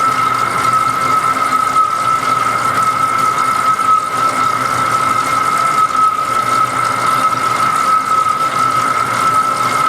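Metal lathe running steadily while turning a big part, with a constant high-pitched whine over a steady hiss and a low hum.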